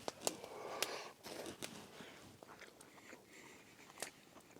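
A person chewing a mouthful of chicken and Spanish rice close to the microphone, with a few short sharp clicks scattered through it.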